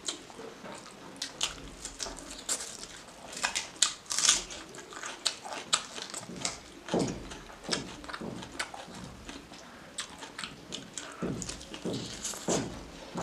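Close-up chewing and lip smacking of people eating pork and rice by hand, with irregular wet clicks from mouths and fingers.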